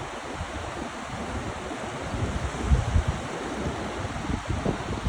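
Surf washing on a beach under a steady hiss, with wind gusting on the microphone in irregular low rumbles, strongest about halfway through.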